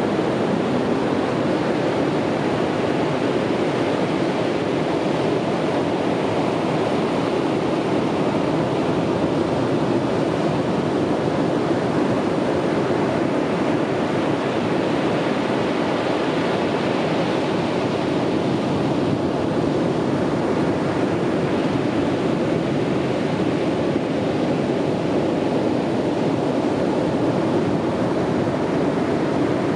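Ocean surf washing on a beach: a steady, continuous rush of water with no separate wave crashes standing out.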